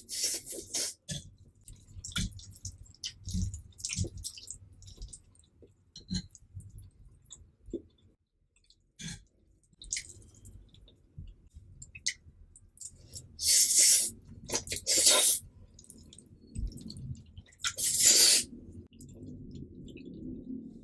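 A person eating cheesy instant noodles close to the microphone: soft chewing and wet mouth sounds, with a few loud slurps of noodles, the loudest about two-thirds of the way through and again near the end.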